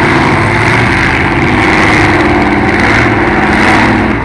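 Demolition derby cars' engines running loudly, with the rasp of engines worked hard under load.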